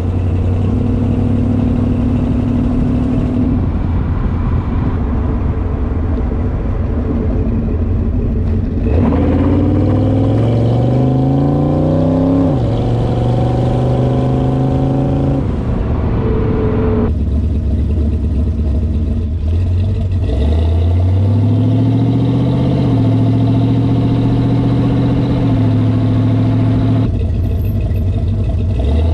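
1979 Ford Mustang's V8 engine running while driving: steady at first, then rising in pitch as it accelerates about nine seconds in, dropping suddenly at a gear change a little before halfway, and rising again about two-thirds through before settling steady.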